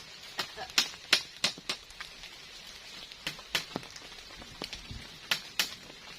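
Steady rain, with a series of sharp knocks or taps coming in small groups of two to five.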